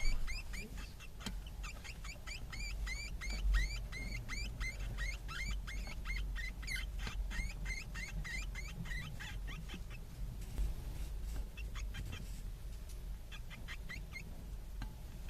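Week-old hamster pups squeaking in the nest: a fast run of short, high chirps that slide downward, about four to five a second. After about ten seconds they thin out to scattered chirps.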